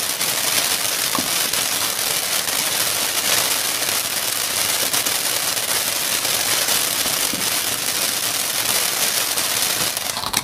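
A firework burning with a steady, dense hiss and fine crackle of spraying sparks, cutting off abruptly at the end.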